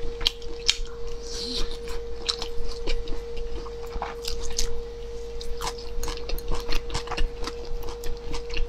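Close-miked chewing and biting of grilled skewered food, a potato slice among it, with many small wet mouth clicks, over a steady hum.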